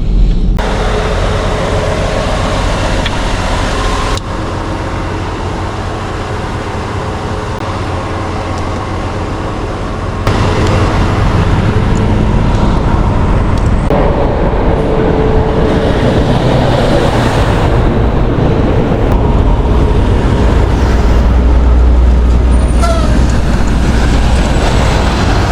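Loud road and traffic noise with low rumble, heard while riding an electric scooter along the road, changing level abruptly twice as the footage cuts.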